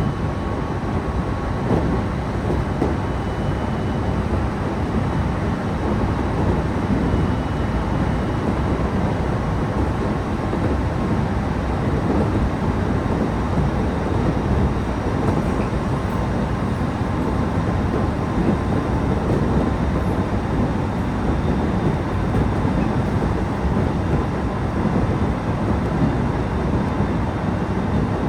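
Local passenger train running along the line, heard from on board: a steady rumble of wheels on rail with faint steady tones above it.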